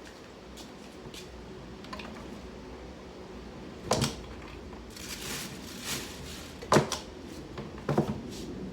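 Household objects being handled: a few sharp knocks and clunks, the loudest about seven seconds in, with a stretch of rustling or scraping between them.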